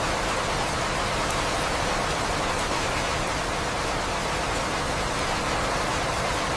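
Steady rain, an even hiss that holds at one level without pauses or thunder.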